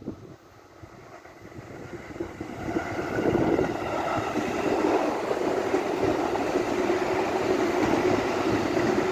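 A train approaching and running past close by, its rumble growing louder over the first three seconds and then holding steady.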